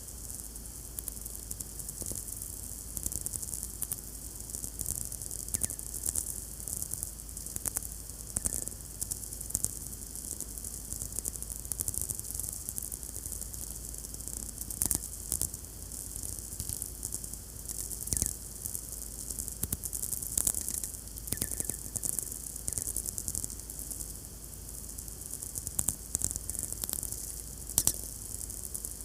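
VLF radio receiver picking up sferics, the radio pulses of many distant lightning strikes, heard as dense irregular crackling and popping over a steady high hiss, with a few louder pops.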